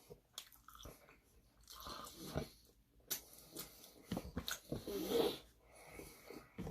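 A person chewing and biting food close to the microphone, in short irregular bursts with pauses between.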